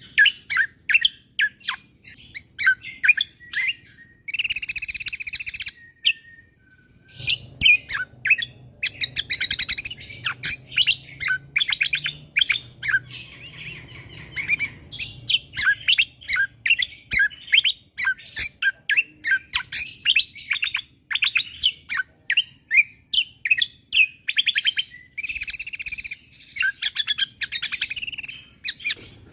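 A cucak kombo (kecial kombo) singing energetically in rapid volleys of short, sharp, high chirps packed close together. The volleys are broken by a few fast trilled phrases and a brief pause about six seconds in.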